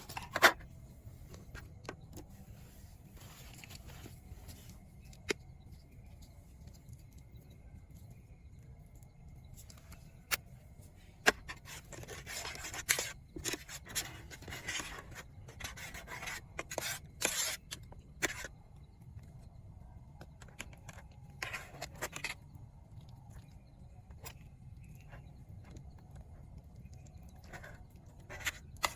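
Rustling and scraping handling noises in bursts, busiest in the middle, with several sharp clicks, over a steady low rumble.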